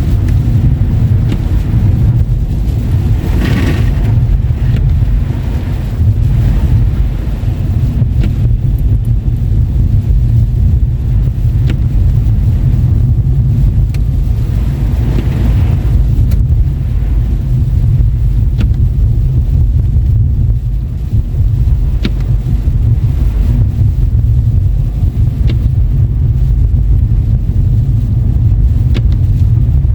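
A car driving on wet, slushy winter roads: a loud, steady low rumble of road and engine noise, with a hiss swelling up twice, about 3 seconds in and again about 15 seconds in.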